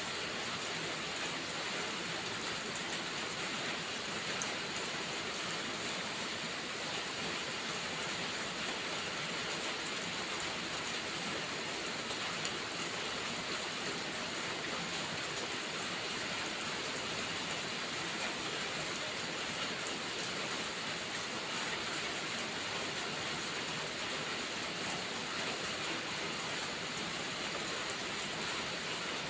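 Steady rain falling, an even hiss of many drops that does not change in strength.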